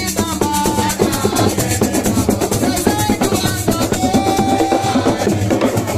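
Live assiko music: dense, fast drumming with a shaker rattling along and a few held melodic notes over it.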